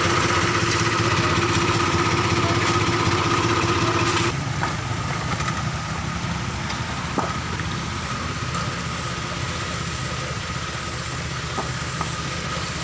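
An engine running steadily, with a sudden drop in level and a change of tone about four seconds in, then running on with a few faint clicks.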